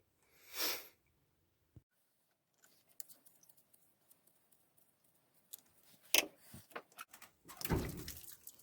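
Quiet handling of a citric acid packet and the expansion tank: a few light clicks, then two louder rustles near the end.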